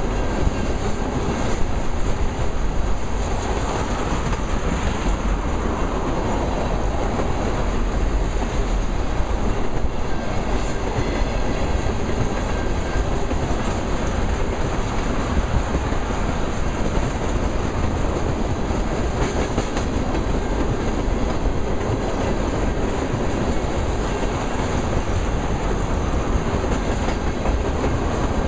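Freight train tank cars rolling past, their steel wheels running on the rails with a steady, even noise.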